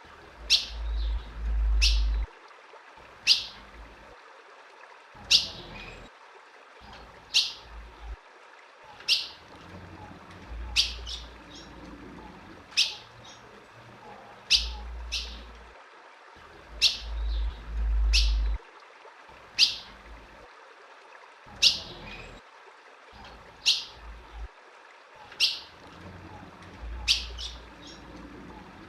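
Female ultramarine grosbeak (azulão) giving short, sharp call notes, one every second or two, each a quick downward sweep. A low rumble comes and goes underneath.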